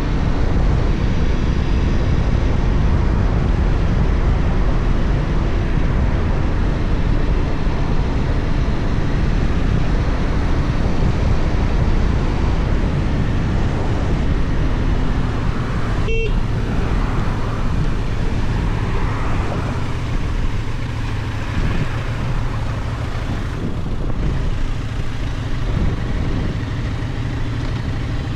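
Benelli Tornado 550's parallel-twin engine running as the motorcycle is ridden, mixed with steady wind and road noise. The sound eases off a little in the second half, and there is a short blip about halfway through.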